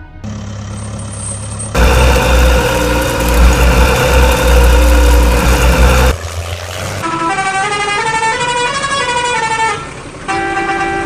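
Cartoon vehicle sound effect: a loud vehicle noise with steady horn-like tones for about four seconds, followed by a short tune of quick stepping notes.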